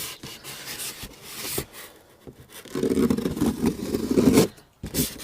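Cardboard packaging and boxed parts being handled and shifted: rustling and light scraping with a few knocks, then a longer scraping rub lasting under two seconds, starting about three seconds in.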